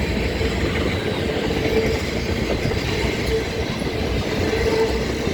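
Freight train cars rolling past, with a steady rumble and clatter of wheels on rail and a faint ringing tone that comes and goes.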